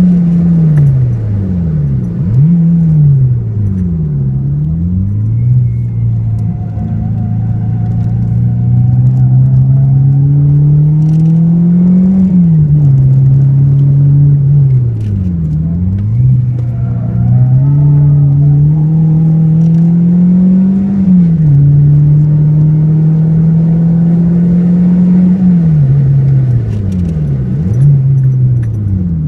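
Renault Clio 2 RS's 2.0-litre four-cylinder engine heard from inside the cabin, driven hard on track. The revs dip and jump back sharply several times near the start and again near the end as the car brakes and changes down. In between they climb steadily and then fall at each gear change.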